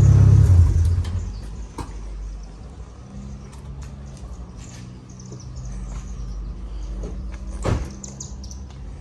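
Mitsubishi Lancer Evolution X MR's 2.0-litre turbocharged four-cylinder, heard through its current muffled cat-back exhaust, dropping from a rev back to a steady idle within the first second or so, then idling. A single sharp knock comes about three quarters of the way in.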